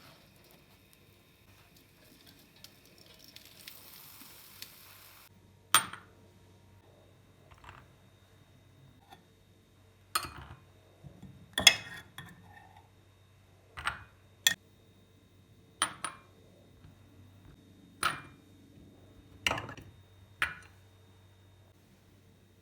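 Kitchen dishes and utensils being handled: about ten sharp clinks and knocks, spread a second or two apart, after a soft hiss in the first five seconds.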